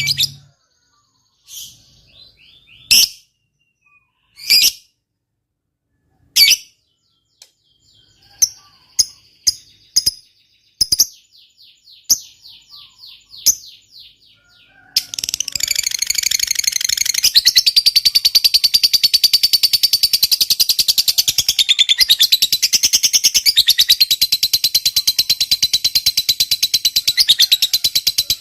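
Lovebird calling: single sharp chirps and short chattering runs with pauses between them, then about halfway through it breaks into a long, unbroken, rapid chattering trill, the 'ngekek panjang' long chatter prized in fighter lovebirds.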